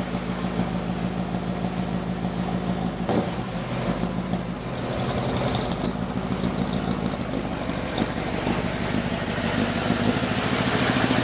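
1949 Ford's flathead engine idling steadily, with one sharp click about three seconds in.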